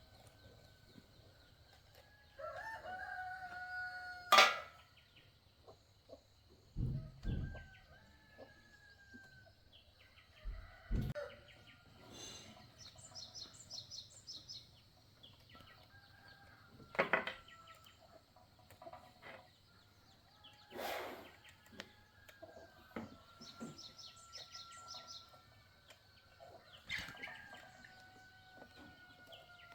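Roosters crowing several times in long calls with falling tails, between scattered sharp knocks and a few low thumps; the loudest knock comes about four seconds in.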